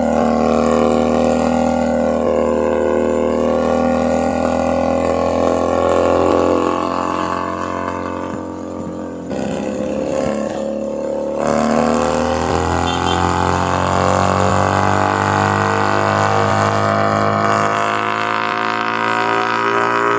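Keeway SCR 250 motorcycle engine and exhaust under way, the engine note rising and falling with the throttle. It eases off and goes quieter around eight seconds in, picks up sharply at about eleven seconds, then pulls with a steadily climbing pitch.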